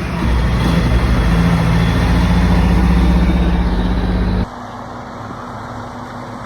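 Heavy truck engine running with a steady low drone, dropping suddenly to a much quieter steady hum about four and a half seconds in.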